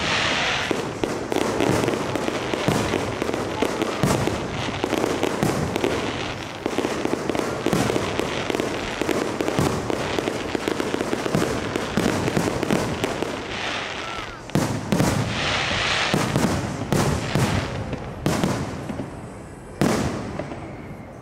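Aerial fireworks going off in a dense barrage of bangs, with stretches of crackling. A big bang comes near the end, then the barrage thins out.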